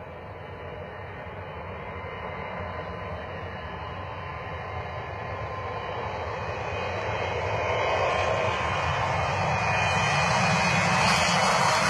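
Boeing 727 jet engines running at takeoff power, growing steadily louder as the jet comes closer on a long takeoff roll.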